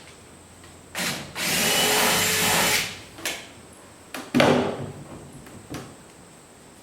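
Power drill running in one steady burst of about a second and a half, with a knock just before it and a few short clunks and handling sounds after.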